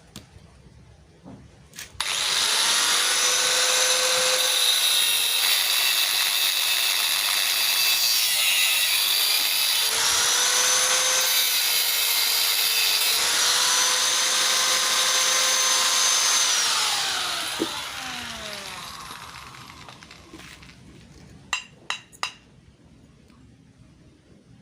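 Handheld electric power tool running at high speed, its pitch dipping and recovering a few times as it works, then winding down with a falling pitch after the trigger is released. A few light metal clinks follow near the end.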